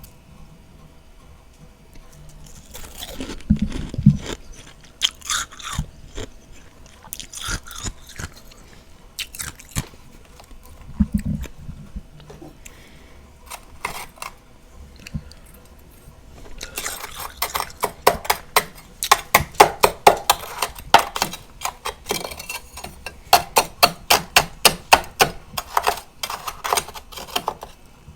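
Close-miked crunching of freezer frost being eaten: a few scattered bites and crunches in the first half, then, a bit past halfway, a run of quick chewing crunches, about three a second, that stops shortly before the end.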